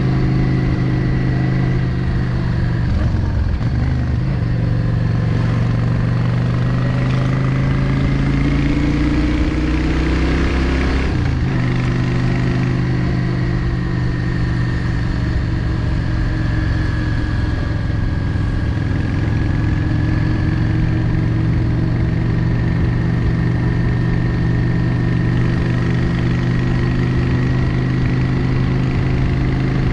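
Yamaha XVS 650 Drag Star's air-cooled V-twin engine running on the road, heard from the bike. Its pitch climbs under acceleration about a third of the way through, then drops sharply and settles to a steady run.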